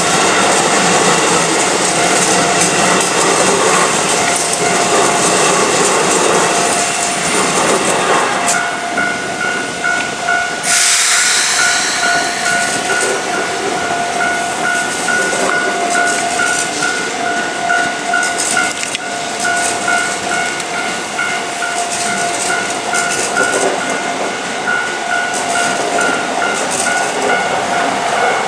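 Trains on the Keikyu Main Line rumbling and clattering over a level crossing, with a sudden hiss about a third of the way in. Through most of it the crossing's warning bell rings in an even, repeating two-tone pattern.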